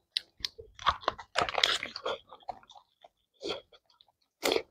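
Close-miked chewing and crunching while eating pork by hand: irregular wet bites and crunches, busiest about a second and a half in, then a lull with a single chew and another loud crunch near the end.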